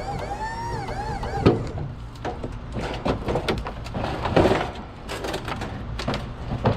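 Irregular knocks, clanks and scrapes of heavy junk being handled, the sort made by pulling scrap and loading it, over a steady low rumble. A wavering pitched tone ends about a second and a half in.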